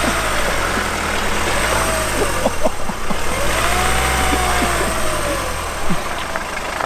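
Nissan X-Trail's engine revving under load as it tries to climb out of a steep muddy dip, the revs rising and falling twice, with a few short knocks from the car.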